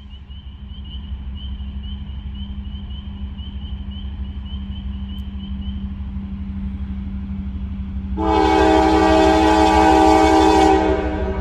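A grade-crossing bell dings about twice a second over the growing rumble of an approaching diesel freight locomotive, then stops about six seconds in. About eight seconds in, the locomotive's air horn sounds one long blast of about two and a half seconds, the loudest sound, and the rumble runs on after it.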